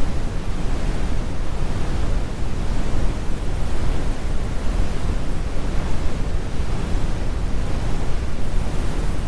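Synthetic brown noise: a steady, deep rumble with most of its weight in the bass and the highs rolled off, with no events or changes.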